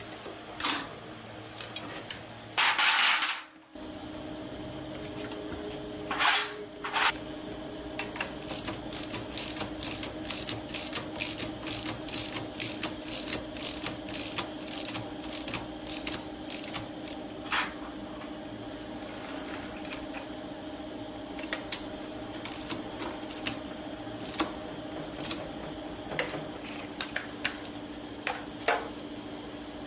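Mechanical clicking, a few sharp clicks a second, over a steady hum. About three seconds in there is a loud burst of noise lasting about a second.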